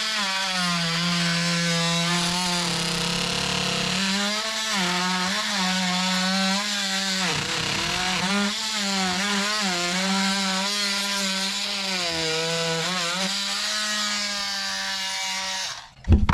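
Oscillating multi-tool saw plunge cutting into dry deck lumber: a steady buzzing drone whose pitch wavers as the blade loads up in the wood. It stops abruptly near the end.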